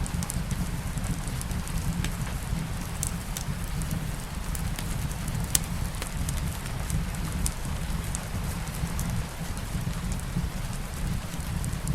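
Soft rain mixed with a crackling fireplace: a steady low rumble and hiss under scattered sharp crackles, one louder crack about five and a half seconds in.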